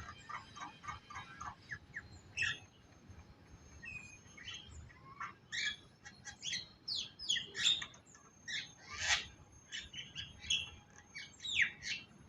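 Songbird singing. It opens with a quick run of short notes, then gives varied chirps and quick downward-sliding whistles, some much louder than others.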